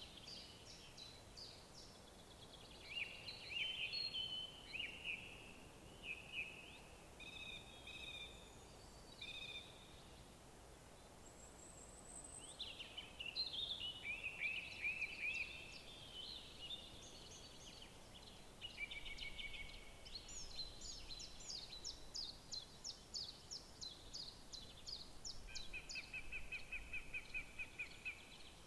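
Several songbirds singing in short, overlapping phrases of chirps and warbles, with a run of quick repeated notes in the second half and a fast trill near the end, over a faint steady background hush.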